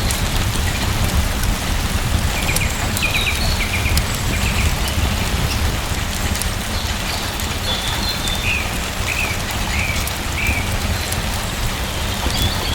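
Steady rain falling, an even hiss over a deep low rumble, with short high chirps coming in a few brief runs.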